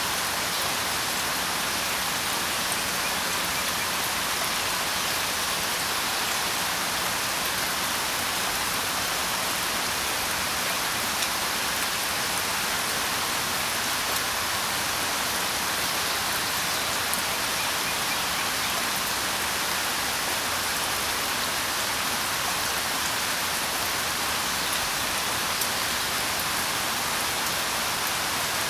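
Steady rain falling, an even hiss with occasional individual drops ticking.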